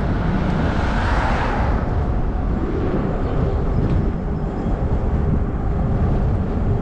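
Wind rumbling on the microphone while riding an e-bike, with a brief swell of hiss about a second in.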